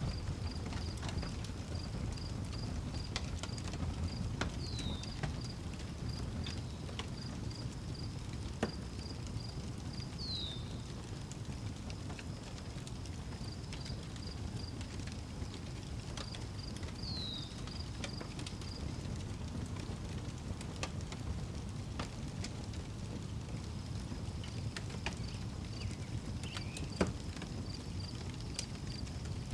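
Outdoor wood fire crackling with scattered sharp pops over a low steady rumble, one louder pop near the end. Crickets chirp in a regular high pulsing train, and a bird gives a short falling whistle three times.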